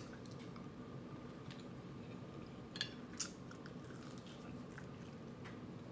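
A person chewing and biting food, close to the microphone, with a few short sharp mouth clicks, the loudest two about three seconds in, over a steady low hum.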